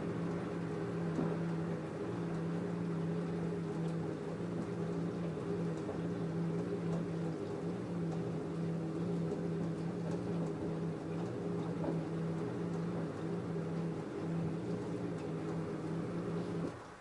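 LG F10A8HDS5 washing machine running mid-cycle: a steady machine hum that cuts off abruptly near the end.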